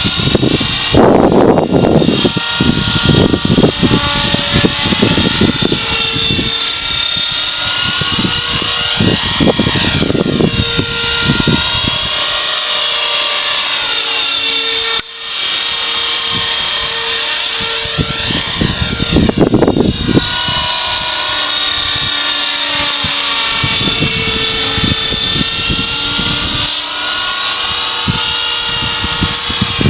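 Blue Ray 450 RC helicopter flying: a steady high whine from its motor and rotors that keeps sliding up and down in pitch as it moves and manoeuvres. Gusts of wind rumble on the microphone every several seconds.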